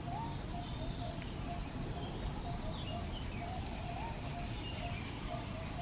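Birds calling: a steady run of short repeated chirps, a few rising at the end, with scattered higher chirps above them, over a low steady rumble.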